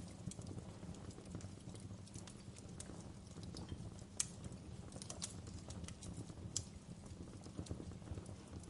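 Wood fire burning in a fireplace, crackling with irregular sharp pops over a steady low rumble of the flames, the loudest pop about four seconds in.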